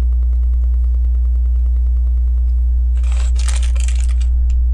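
A steady low electrical hum throughout, with a brief burst of small plastic clicking and rattling about three seconds in as LEGO pieces are handled.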